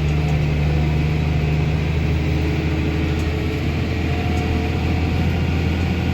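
A small farm tractor's engine running steadily under load as it pulls a loaded solid-manure spreader up a hill, a low, even drone.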